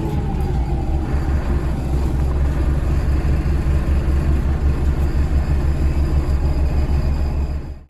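Scania L94UB bus's DC9 diesel engine running with a steady low rumble, heard from inside the bus. The sound dips out abruptly near the end.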